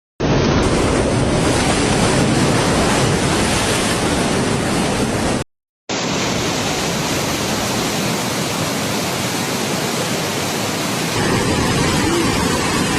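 Loud, steady rushing of water, such as a flooded river or torrent, with a brief silent break about five and a half seconds in.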